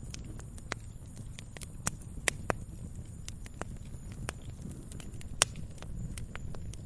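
Wood fire crackling: irregular sharp pops and snaps, the loudest about two and five seconds in, over a steady low rumble of the burning fire.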